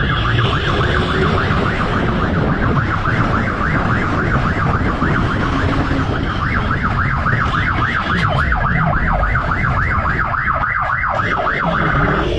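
Police siren in fast yelp mode, its pitch sweeping rapidly up and down about five times a second, over the steady rumble of vehicle and road noise.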